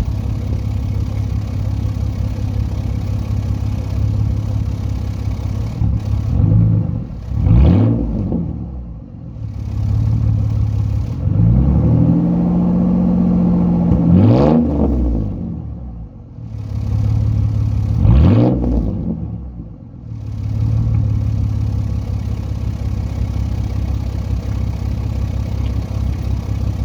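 2009 Ford Mustang's 4.0-litre V6 running through true dual straight pipes, idling steadily and revved lightly: a quick pair of revs about a quarter of the way in, a rev held for a couple of seconds near the middle that ends in a sharp blip, another sharp blip soon after, then back to a steady idle.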